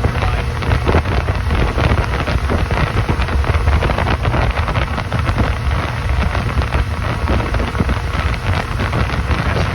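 Wind buffeting the microphone on a moving boat, over the steady rumble of its engine and water noise.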